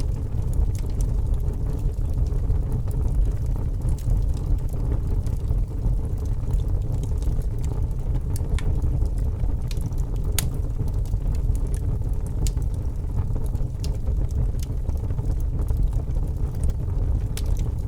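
Wood fire burning in a fireplace: a steady low rumble with scattered sharp crackles and pops, the loudest about ten seconds in.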